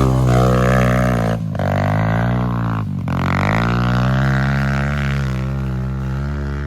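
Pit bike's small single-cylinder engine running hard under throttle. It cuts out briefly twice, about a second and a half in and again at three seconds, each time climbing back up in pitch as the throttle comes back on.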